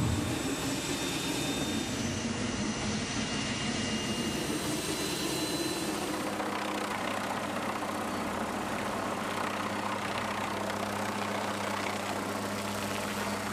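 An engine running steadily, a constant rushing noise with a low hum under it.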